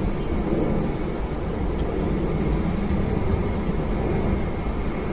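Wind buffeting the microphone: a steady, rumbling low roar with no distinct events.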